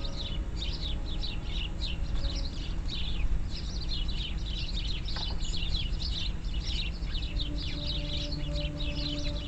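A flock of small songbirds chirping, many short quick calls overlapping in a continuous chatter, over a low outdoor rumble.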